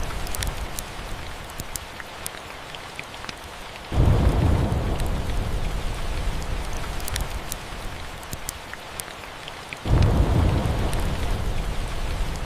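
Steady rain with two low rumbles of thunder, each breaking in suddenly, about four and ten seconds in, and fading away over several seconds. Scattered sharp crackles run through it.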